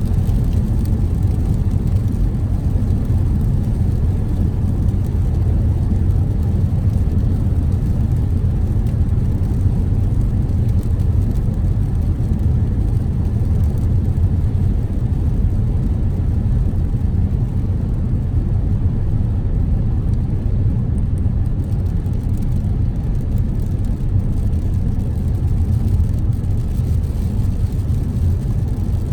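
Car driving at a steady speed: a constant low rumble of engine and tyres on the road, with no change in level.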